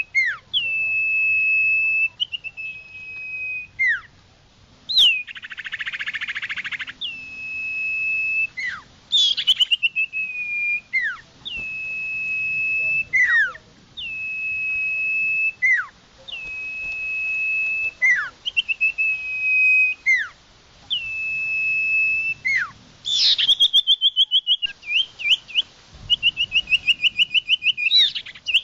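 Common iora song, the kind played as a bird lure: long, clear, level whistles, each ending in a quick downward slur, repeated about every two seconds. A harsh buzzy burst comes about six seconds in, and a fast run of trilled notes near the end.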